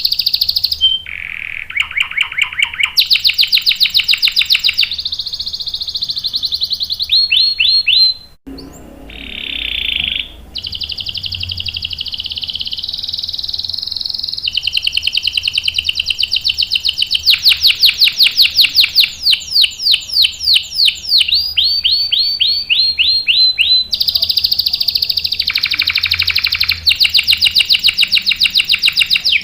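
Domestic canary singing long rolling trills: fast runs of the same high note repeated many times a second, each run lasting a second or more before switching to a new pitch, with a short break about eight seconds in.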